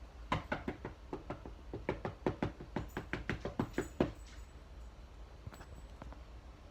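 Knocking on a door: a quick, uneven run of about twenty knocks, around five a second, lasting about four seconds and then stopping.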